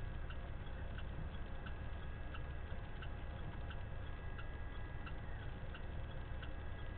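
Turn signal ticking evenly, about one and a half times a second, inside a semi truck's cab, over the steady low rumble of the truck's diesel engine.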